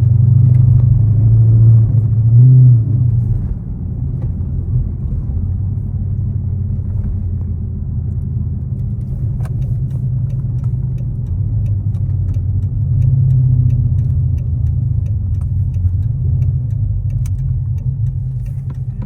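Dodge Charger 392 Super Bee's 6.4-litre HEMI V8 running as the car is driven: a steady, deep low drone. It is loudest for the first few seconds, eases off, then swells again about two-thirds of the way through.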